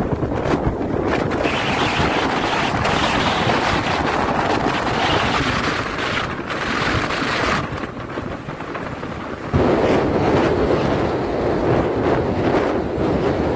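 Sea waves washing and breaking on a beach at high tide, a rushing hiss that swells and eases, with strong wind buffeting the microphone as a low rumble. The sound fades a little past halfway, then comes back suddenly louder about ten seconds in.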